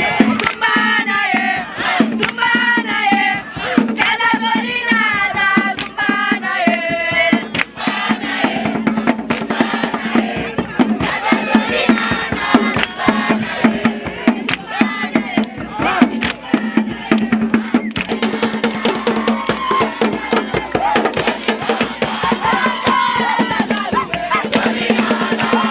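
A group of people singing and chanting together, with sharp rhythmic percussion beating along. The singing is most distinct in the first several seconds, then blends into a denser crowd sound.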